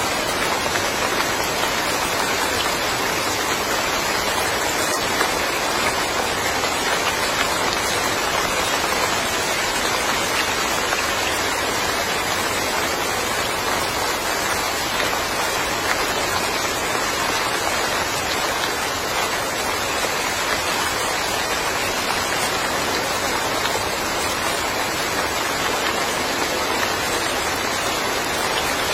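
Steady rain falling: an even, unbroken hiss of many drops with no single drop or other sound standing out.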